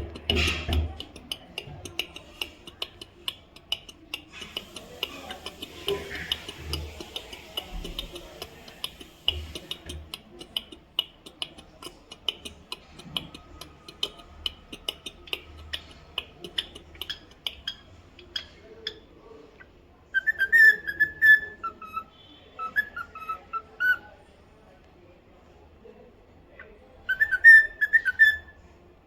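Pet cockatiel whistling: three short warbling whistled phrases in the second half, the loudest sounds here. They follow a long stretch of rapid, faint ticking and chatter.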